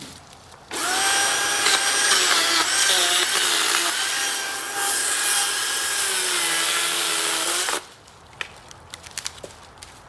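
DeWalt cordless electric chainsaw cutting into a felled tree's wood for about seven seconds, its motor whine sagging in pitch under load. It cuts out abruptly near the end as the battery goes dead.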